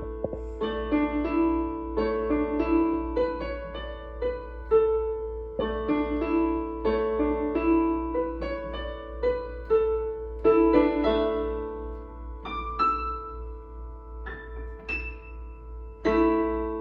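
Solo piano playing a melody over chords, with the notes thinning out and slowing near the end. A low hum runs underneath.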